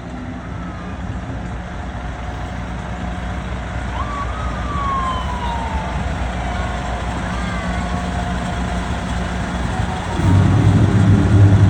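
Truck engines running low and steady as parade trucks pass, with a short falling siren tone about four seconds in. A much louder truck engine rumble comes in about ten seconds in.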